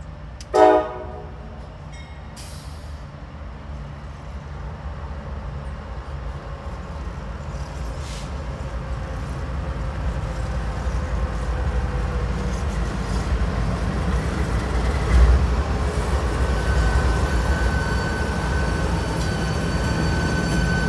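Norfolk Southern freight train's diesel locomotives approaching and passing close: a short horn toot about half a second in, then engine rumble and rail noise growing steadily louder. There is a heavy thump about two-thirds of the way through, and a steady high whine over the last few seconds as the locomotives go by.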